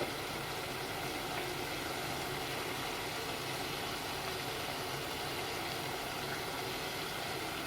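Stir-fried vegetables sizzling steadily in a pan on the stove.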